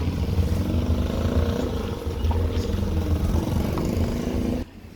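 Motor vehicle engine running steadily with a low hum. The sound drops away suddenly near the end.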